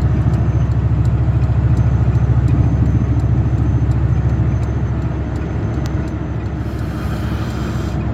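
Dodge Ram 1500 pickup driving at highway speed: a loud, steady low rumble of road and wind noise that flutters rapidly. A hiss swells briefly about seven seconds in.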